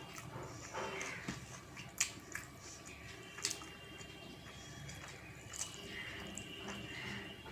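Close-miked eating sounds: chewing and wet mouth clicks and smacks of a rice-and-curry meal, with a few sharp clicks spaced through.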